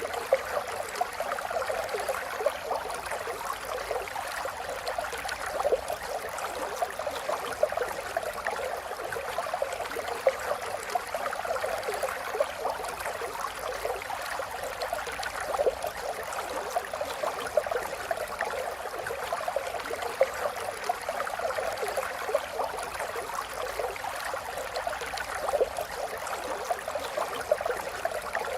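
Running water burbling and trickling steadily, a continuous wash with many small quick splashes in it.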